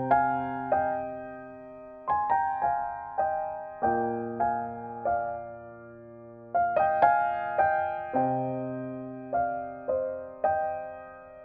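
Background solo piano music: slow, gentle notes and chords, each struck and left to ring and fade.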